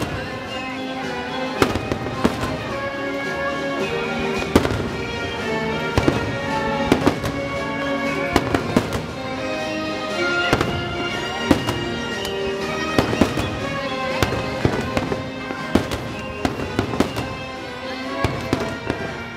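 Aerial fireworks shells bursting in repeated sharp bangs, irregularly spaced throughout, over the show's music, which plays continuously.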